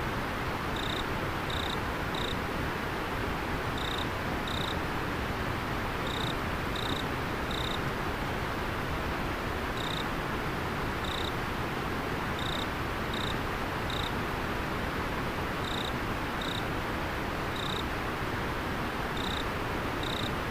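Steady rushing of river water, with an insect chirping over it in short, high, clear notes, mostly in groups of two or three with pauses between.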